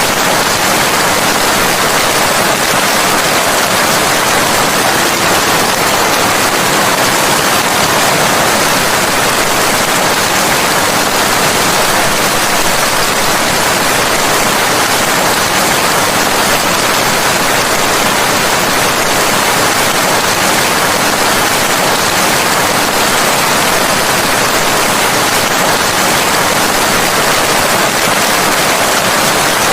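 Steady heavy rain: a dense, even hiss that does not change.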